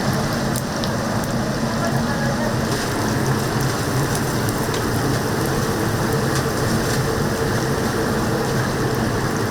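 Whole chickens deep-frying in oil in a cast-iron cauldron (gamasot): a steady, dense sizzle, with a low steady hum underneath.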